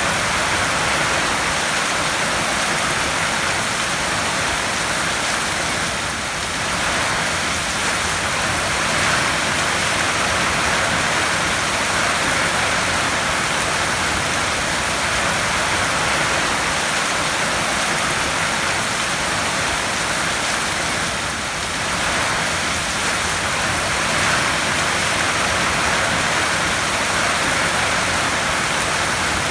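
Heavy rain falling steadily on a tin roof: a dense, even hiss that eases slightly twice, about a fifth of the way in and again about three quarters in.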